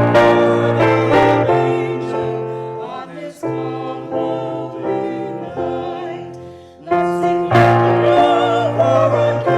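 Piano playing slow, sustained chords, with singers' voices holding notes with vibrato in the later part.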